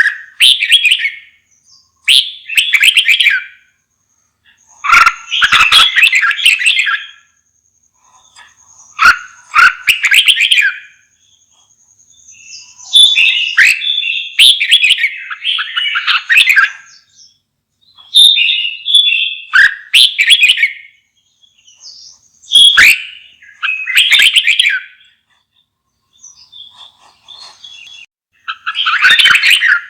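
Red-whiskered bulbul singing: loud, short warbled phrases a second or two long, repeated with brief pauses.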